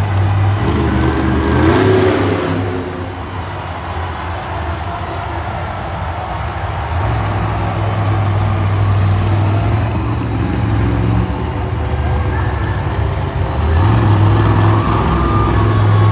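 Monster truck engine running with a deep steady drone, revving up in steps about seven seconds in and again near fourteen seconds.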